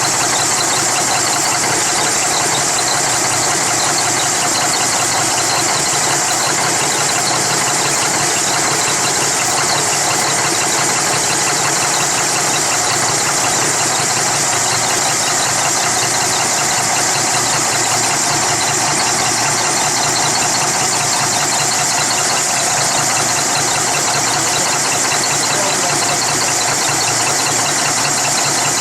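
Cummins ISX CM871 diesel engine idling steadily, freshly restarted after an injector replacement and running rough while its dry fuel system finishes priming.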